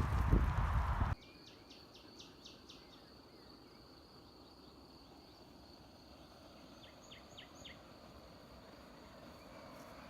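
Wind and riding noise on the microphone that cuts off abruptly about a second in. Then quiet countryside ambience: a steady high insect drone, with two short runs of quick high chirps, one early and one near two-thirds of the way through.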